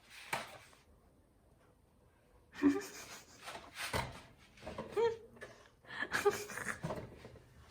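Rubbing and rustling of toy packaging being handled, in short bursts, with a few brief vocal sounds mixed in.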